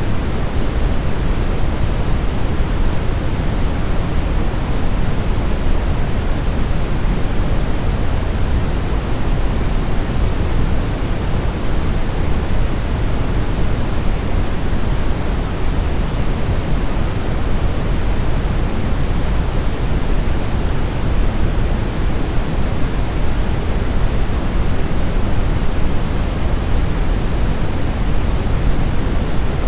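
Steady brown noise: an even, deep hiss weighted toward the low end, with no changes.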